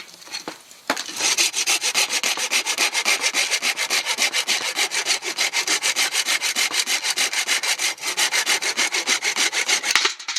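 Fine-toothed bamboo saw cutting through bamboo in quick, even strokes, about five a second. The sawing starts about a second in and stops sharply just before the end.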